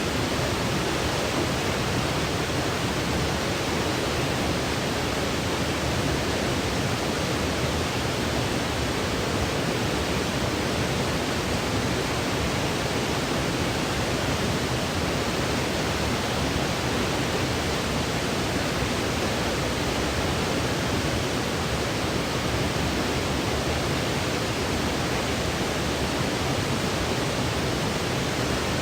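Steady white noise for sleep: an even, unchanging hiss with no tones or events in it.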